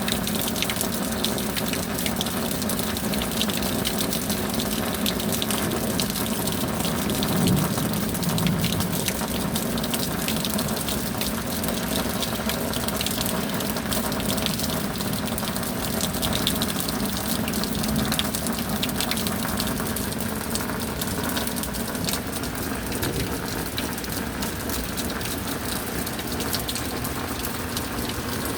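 Steady rain: a constant rush of falling water, peppered with many sharp drop hits close by.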